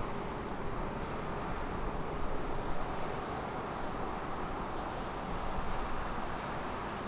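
Jet airliner's CFM56 turbofan engines on landing approach: a steady rushing noise that swells slightly twice, with some wind on the microphone.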